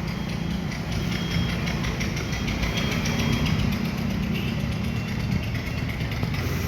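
A steady, low mechanical rumble of an engine running at idle.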